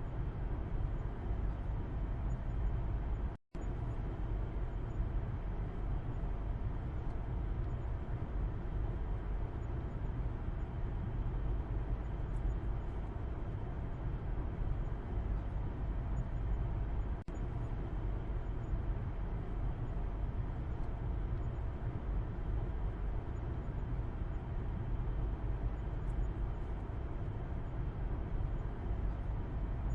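Steady low road rumble and tyre noise inside a moving car, heard from the back seat. The sound cuts out completely for a split second about three and a half seconds in.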